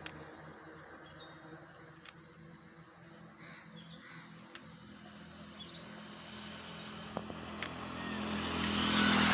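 Outdoor ambience with faint, evenly repeated high chirps, then a motor vehicle approaching and growing steadily louder, loudest at the end.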